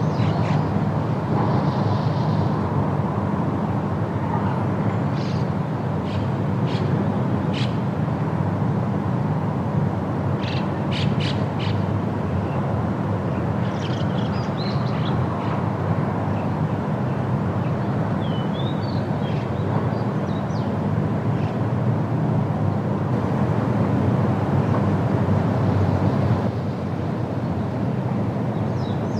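Steady wind noise through forest foliage, with scattered short bird chirps and calls over it.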